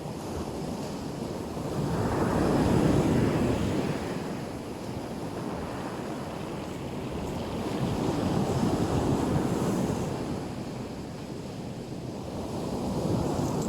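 Black Sea surf breaking on the shore: waves wash in and ebb away, swelling three times, about every five seconds. Wind buffets the microphone throughout.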